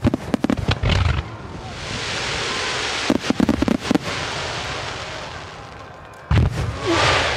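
Digital starmine fireworks salvo: quick volleys of sharp bangs at the start and again around three seconds in, with a long hiss of bursting shells between them. A heavy bang comes about six seconds in, followed by a rising hiss.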